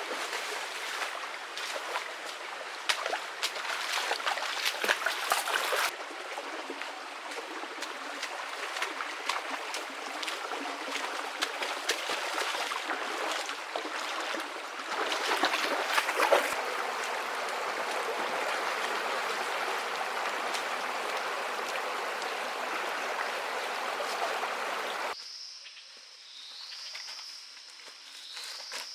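Stream water running and splashing, with many sharp splashes and clicks. About 25 seconds in it cuts to a quieter scene with a high chirping call repeated every second or so.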